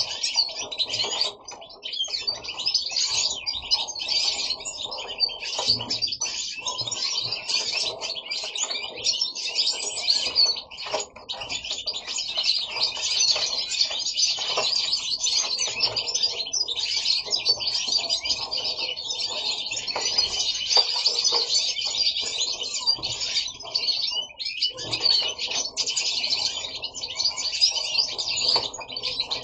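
Caged European goldfinches singing, a dense fast twittering song that runs on almost without a break, dipping briefly about 11 and 24 seconds in.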